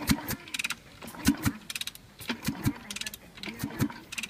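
Irregular metallic clicks and knocks from hand work on a Suzuki RGγ500 engine's top end, some with a short metallic ring.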